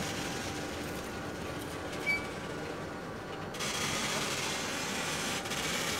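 Freight train container wagons rolling past: steady wheel-on-rail rumble and clatter, with a brief high-pitched note about two seconds in.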